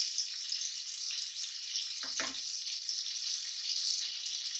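Chopped tomatoes sizzling steadily in hot spiced oil in a nonstick kadai as they fry.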